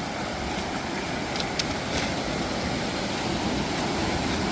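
Steady rushing noise of a waterfall swollen by rain, with a few faint ticks about one and a half to two seconds in.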